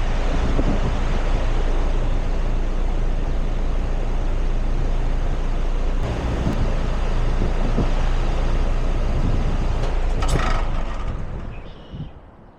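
A 4-ton RunTru heat pump's outdoor unit running in heat mode: a steady low hum under a broad rushing noise. About ten seconds in there is a brief sharp noise, and the unit shuts down, its sound dying away quickly.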